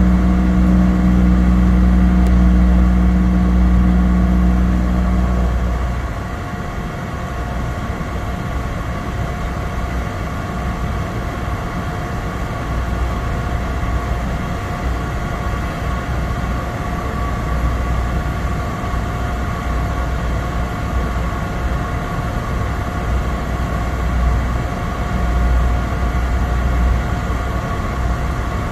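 Cessna 208 Caravan's Pratt & Whitney PT6A turboprop heard from inside the cabin: a loud steady propeller drone with a turbine whine above it. About six seconds in, the deep low drone drops away and the sound gets a little quieter, leaving a steadier whine and hum.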